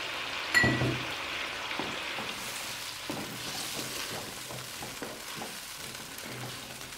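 Chicken pieces with yogurt and soy sauce sizzling and bubbling in a hot wok, stirred with a wooden spatula that scrapes and taps against the pan. A sharp knock about half a second in is the loudest moment.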